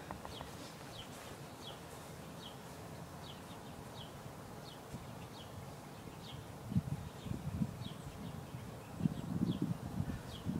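A bird giving a short, high, falling chirp over and over at a steady pace. About two-thirds of the way through, irregular low thumps and rumbles join in and become the loudest sound.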